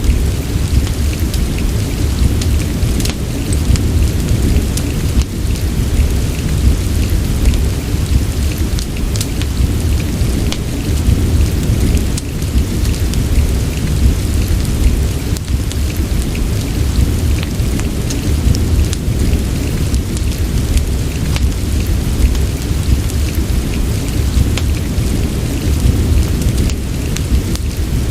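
Steady rain with a continuous deep rumble underneath, and a crackling fireplace giving scattered sharp pops and snaps over it.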